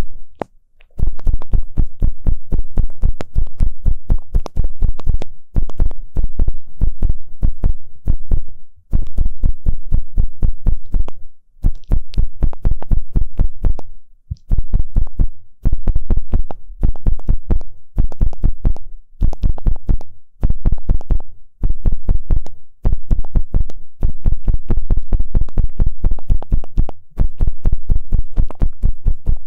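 An ear pick scraping and rubbing inside the ear of a binaural ASMR microphone, heard close and bass-heavy. It makes rapid scratching strokes in runs of one to three seconds with short pauses between them.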